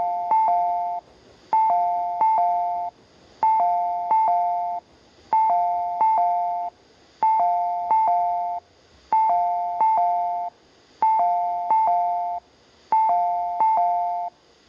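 Station platform train-approach warning chime from the PA speakers: a falling two-note electronic 'ding-dong' played twice in quick succession, the group repeating about every two seconds, eight times over, to warn that the rapid train is arriving.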